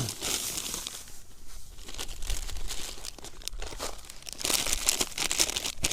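Plastic groundbait packet crinkling and rustling as it is handled and emptied, in irregular spells.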